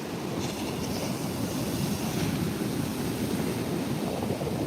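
Ocean surf breaking on the beach, with wind blowing across the microphone, as a steady rushing noise.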